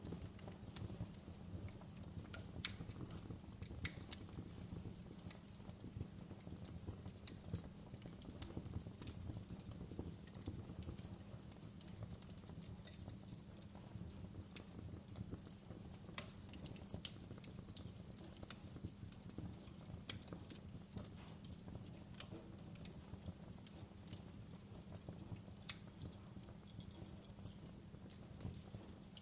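Fireplace wood fire crackling: scattered sharp pops and snaps over a steady low rumble.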